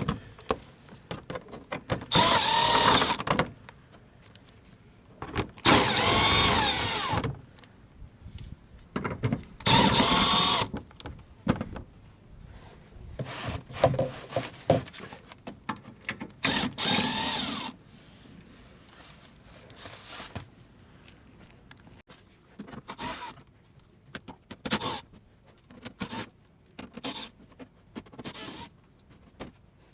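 Electric power tool spinning out the 10 mm bolts that hold an underbody skid plate, in about four bursts of a second or two each, its motor whine rising and falling with each bolt. Shorter clicks and knocks of bolts and plate being handled follow in the second half.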